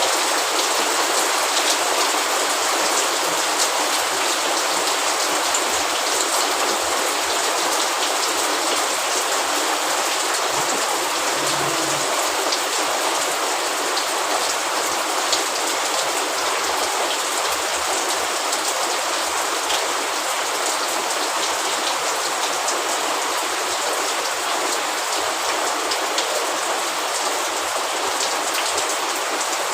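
Steady rain falling, with the patter of many drops hitting surfaces.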